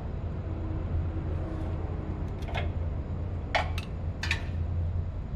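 Steady low machinery hum with three sharp metallic clicks and knocks in the second half, from hands and tools working V-belts onto a motor's pulley.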